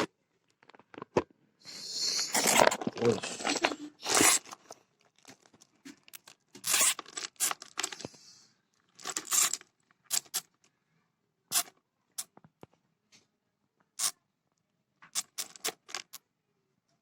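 Irregular bursts of rustling and scraping, with a longer stretch near the start and another midway, then scattered short sharp clicks and scrapes.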